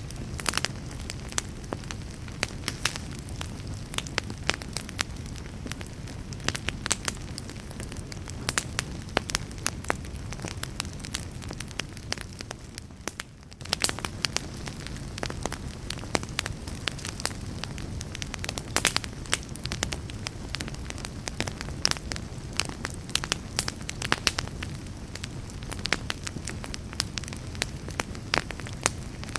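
Campfire crackling: many irregular sharp pops and snaps over a steady low rumble of burning wood, dipping briefly quieter about halfway through.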